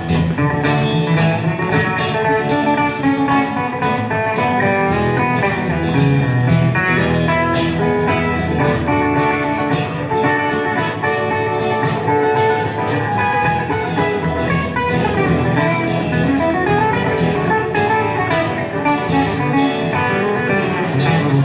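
Guitar music: plucked and strummed guitar playing steadily, with no singing.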